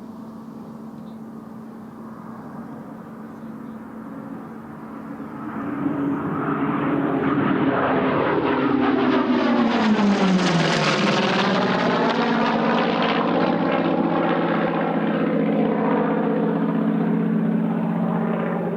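Chance-Vought F4U Corsair's Pratt & Whitney R-2800 radial engine at high power, growing louder as the aircraft approaches. About ten seconds in its pitch drops as it passes, and it then runs on steadily.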